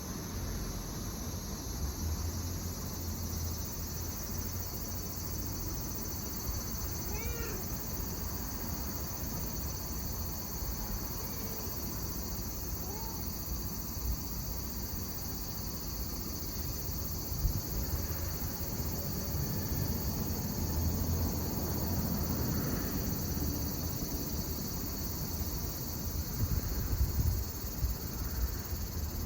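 A steady chorus of insects trilling, with a cat giving one short meow about seven seconds in and a couple of fainter, shorter meows a few seconds later.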